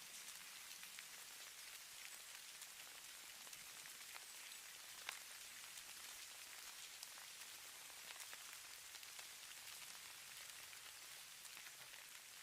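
Snow falling: a faint, steady high hiss with scattered fine ticks, one a little sharper about five seconds in.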